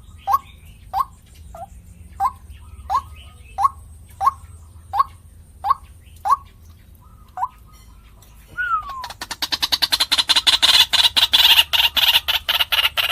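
White-breasted waterhen (ruak-ruak) calling: a steady series of short calls about every 0.7 s, then a single falling note, then from about nine seconds in a much louder, fast chattering run of calls.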